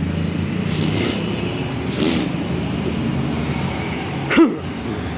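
Bus and traffic engines running with a steady low drone. About four seconds in there is one brief, loud, sharp sound.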